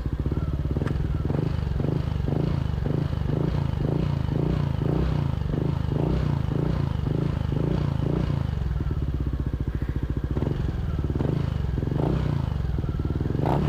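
Yamaha Aerox 155 scooter's single-cylinder engine running through a Villan SR1 aftermarket exhaust, held near idle with light throttle openings. A mellow, steady exhaust note with a regular pulse of about two beats a second.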